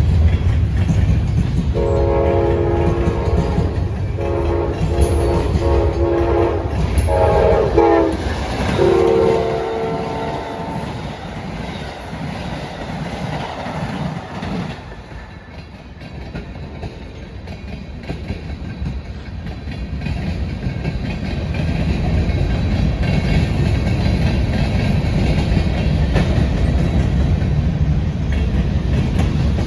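Locomotive air horn sounding a multi-note chord in a series of blasts over about the first ten seconds. Then the rumble and clickety-clack of trains rolling past on the main line takes over, easing midway and building again near the end.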